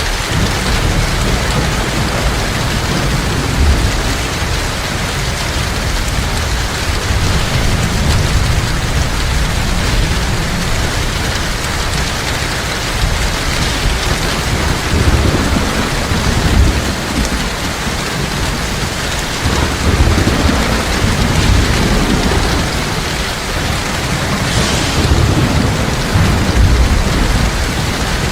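Heavy rain falling steadily, with low thunder rumbling in uneven waves underneath, strongest in the second half.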